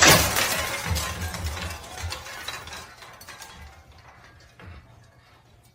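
A sudden loud crash, like something breaking or clattering, that fades away over about three seconds.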